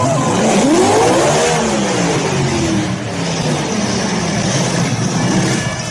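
A car engine revving hard, its pitch climbing and falling back about a second in, then running on steadily at high revs over a loud rush of exhaust noise.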